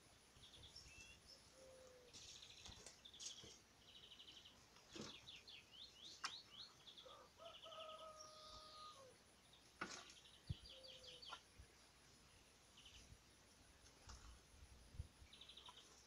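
Faint songbirds singing and calling in spring trees: short buzzy trills and quick chirps repeated throughout, with a flat whistled note about halfway through. A few sharp clicks stand out, the loudest about ten seconds in.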